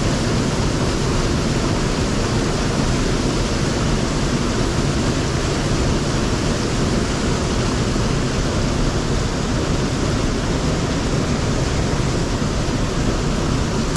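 Steady rushing of mountain stream water: a loud, even hiss with no break.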